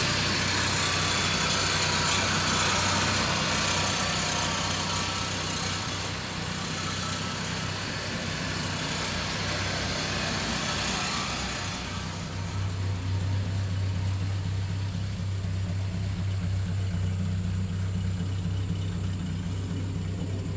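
1960 Land Rover Series II four-cylinder engine idling steadily just after a cold start with the choke out. A loud hiss over the top drops away about twelve seconds in, leaving a steady low hum.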